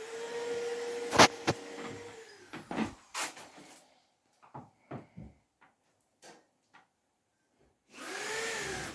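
Electric power tool motor whining at a steady pitch for about two seconds, then winding down with a falling pitch. Several sharp knocks and clicks follow. The motor starts up again near the end.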